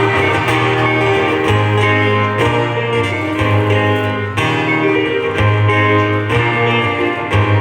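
Instrumental interlude of a live song: guitar with keyboard accompaniment over low held bass notes that change every second or so, between sung verses.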